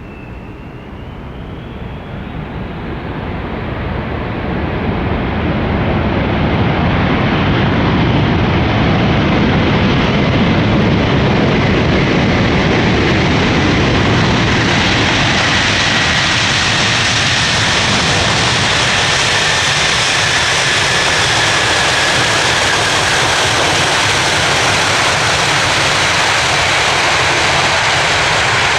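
Jet engines of a Boeing 747-400F freighter on its landing arrival. The noise grows louder over about six seconds, then holds loud and steady, with a high whine slowly falling in pitch near the end.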